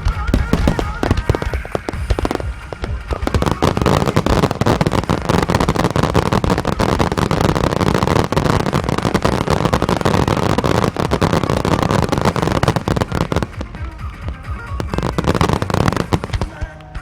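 Aerial fireworks bursting in a dense, rapid barrage of booms and crackles, with music playing underneath. The barrage thickens a few seconds in and thins out near the end.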